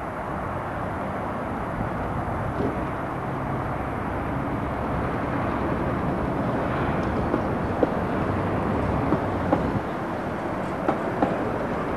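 Kyiv E-series metro train running on open surface track, a steady rumble; in the second half a Tatra tram's wheels click sharply several times over the rail joints.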